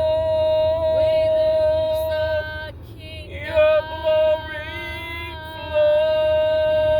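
A woman singing in the spirit: one long held note with a slight waver. It breaks off briefly a little before the middle, then a few sliding notes lead back into the same held note.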